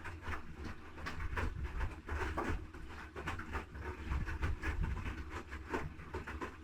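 Haier I-Pro Series 7 washing machine (HW80-B14979) drum tumbling a load during the wash: irregular sloshing and soft thuds of wet laundry over a steady low motor hum.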